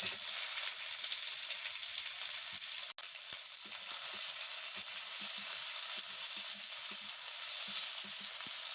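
Chopped onion frying in hot mustard-oil-style kadai oil with whole spices, a steady sizzle. The sizzle breaks off for an instant about three seconds in, then carries on.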